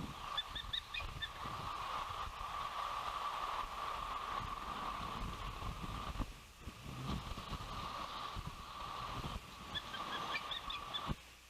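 Ospreys giving two short series of whistled chirps, about a second each, one near the start and one near the end, over wind buffeting the microphone.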